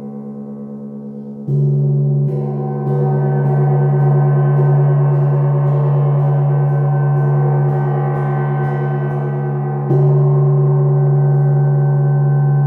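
Gong ringing with long sustained tones. It is struck again about a second and a half in, kept sounding by a run of light, quick strokes about twice a second, and struck once more near the end.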